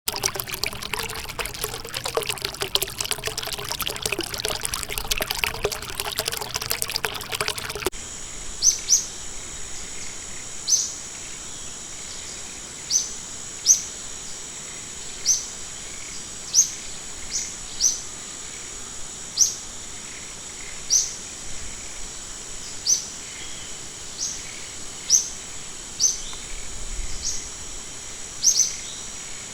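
Splashing, rushing water for the first several seconds, then an abrupt change to a steady high-pitched drone with a bird repeating short, sharp rising calls every second or two.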